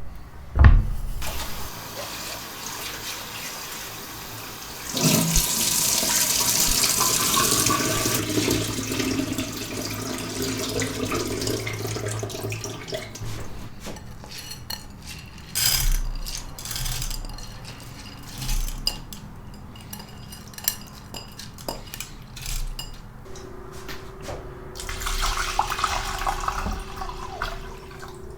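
Water tap running into a sink for several seconds, with knocks and clinks of things being handled and washed around it. A steady hum begins near the end.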